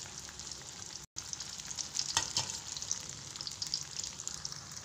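Flour-battered tempe deep-frying in hot oil: a steady sizzle with constant small crackles, and a couple of louder pops a little after two seconds in.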